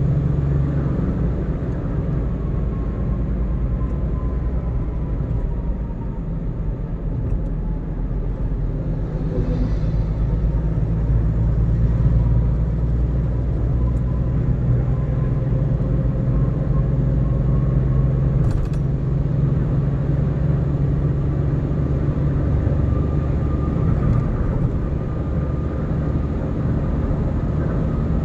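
Car driving at road speed: steady low engine and tyre rumble, with a faint thin whine that sags slightly in pitch and rises again, and one short click about two-thirds of the way through.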